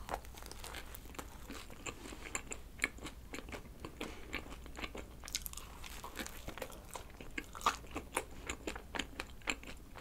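A person biting into and chewing a cream-filled donut dusted with rice flour, close up: a steady run of small crunches and wet mouth clicks from its slightly crisp crust and soft cream filling.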